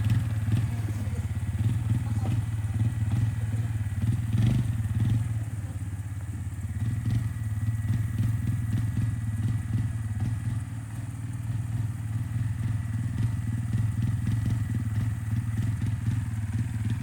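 Motorcycle engine running steadily at low revs, a continuous low drone with a rapid pulse.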